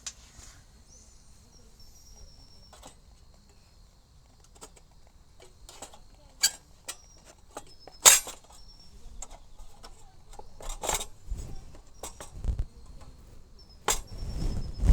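Sharp metal-and-glass clicks and clinks from handling a Feuerhand 276 hurricane lantern while it is being lit, with a denser run of handling noise near the end. Crickets chirp faintly throughout.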